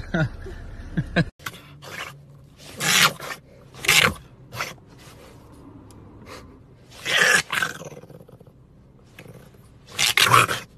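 French bulldog puppy vocalising in about four short, rough, noisy bursts, each under a second long, with quiet between them.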